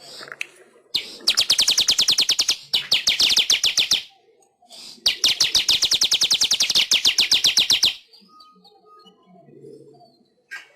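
Manyar (weaver bird) singing: three bouts of a fast, rattling trill of about a dozen notes a second, the last the longest, then softer scattered chatter near the end.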